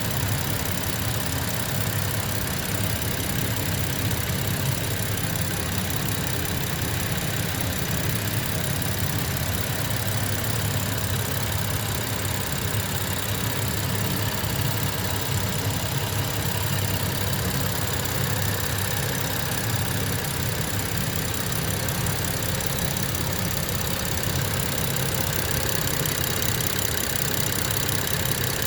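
BMW F30 335i's N55 turbocharged 3.0-litre inline-six engine idling steadily, with no revving.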